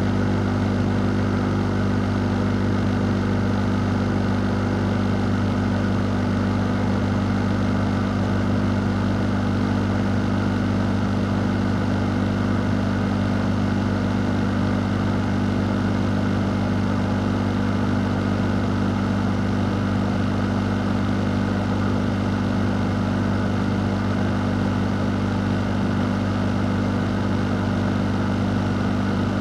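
A fan running steadily, as in a fan or air-conditioning unit: an even rush of moving air over a constant low hum, unchanging throughout.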